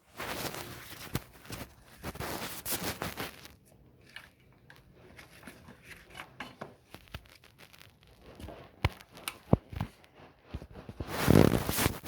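A 9/16 socket wrench being levered against a stuck lawn mower wheel nut: scraping, rattling and scattered sharp clicks and knocks of the tool and mower, with a louder rustling burst near the end. The nut does not come loose.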